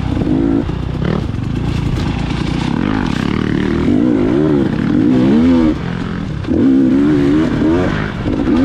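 Dirt bike engine being ridden hard, its pitch climbing and dropping repeatedly as the throttle is worked on and off.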